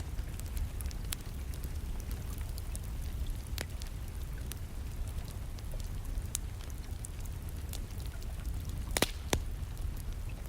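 Wood fire crackling in a fireplace: scattered sharp pops, the loudest two in quick succession about nine seconds in, over a steady background of rain.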